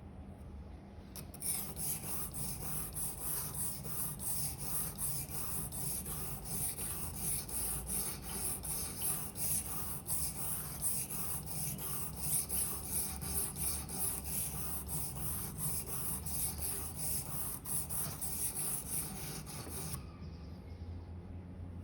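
Victorinox 10 cm paring knife being stroked back and forth on an 800-grit whetstone, a rhythmic scraping at about two strokes a second that starts a second in and stops near the end. The blade is being worked until a burr forms along the edge.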